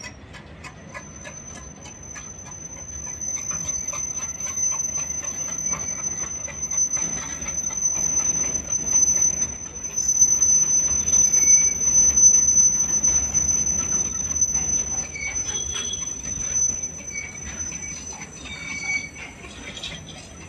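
Freight train of open-top wagons rolling past, its wheels clicking over the rail joints with short squeals from the wheels on the rails. A steady high-pitched whine runs through most of it, and the train gets louder in the middle as the wagons pass close by.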